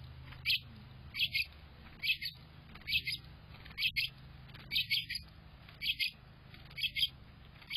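A young bird chirping over and over: short high chirps, mostly in pairs, repeating about once a second.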